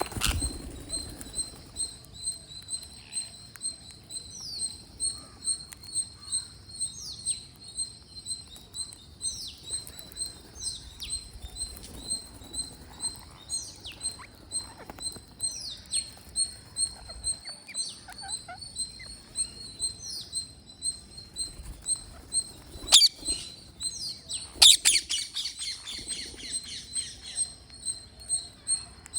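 Parrots calling: a steady run of short high chirps about twice a second, short downward-sliding calls every couple of seconds, then a sharp click and, just after it, a loud harsh squawk lasting about a second.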